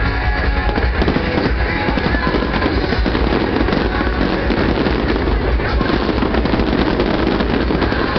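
Aerial fireworks going off in a rapid, continuous barrage of bangs and crackles, with music playing along.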